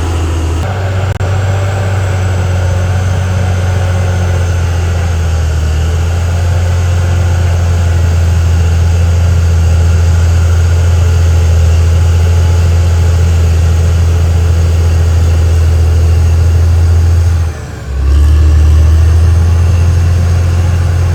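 Caterpillar D6R XL bulldozer's diesel engine running steadily at working speed, with a brief dip in level about three-quarters of the way through before it carries on.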